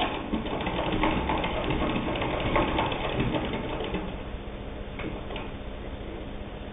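Singer 66 hand-crank sewing machine stitching through eight layers of stretch denim, a rapid mechanical clatter of needle bar and feed. It slows to a stop about four seconds in, leaving a couple of single clicks.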